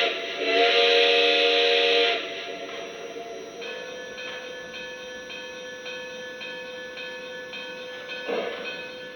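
Model steam locomotive's sound system (Lionel Legacy Russian Decapod) blowing its multi-tone steam whistle, with a brief break and then a longer blast that ends about two seconds in. It then runs on with a quieter steady tone and a regular repeating beat as the locomotive moves off, and a short hiss near the end.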